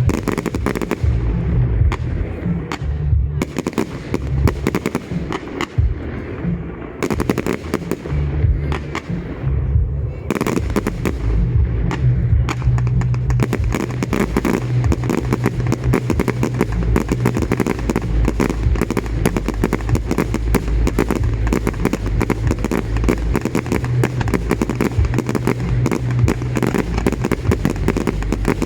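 Fireworks display: a rapid string of bangs and crackles that grows denser from about thirteen seconds in into an almost unbroken barrage.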